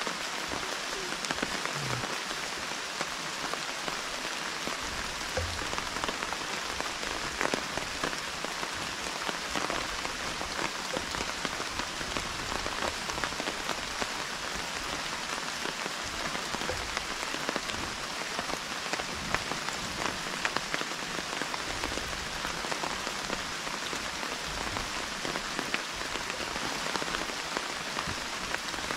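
Steady rain falling through the forest, a dense hiss with many sharp ticks of individual drops hitting close surfaces.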